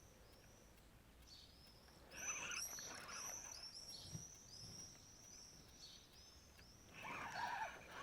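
Small birds chirping: many short, high chirps in quick succession, busiest from about two seconds in, with a louder, lower burst of sound about two seconds in and again near the end.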